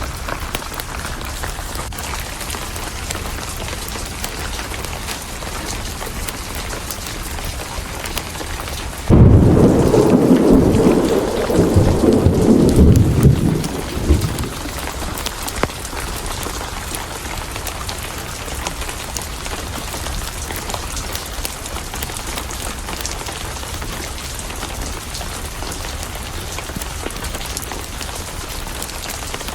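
Steady heavy rain with a loud clap of thunder about nine seconds in that rolls for about five seconds before fading back into the rain.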